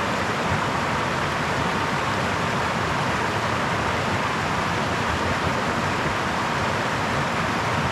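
A small brook's water running over stones, a steady rushing babble.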